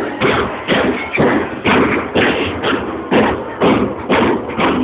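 Carnival murga drums, bass drums with cymbals, beating a steady pulse of about two strong hits a second.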